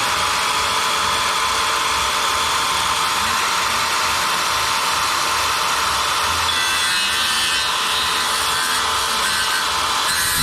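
Electric power saw cutting through a wooden board, running steadily.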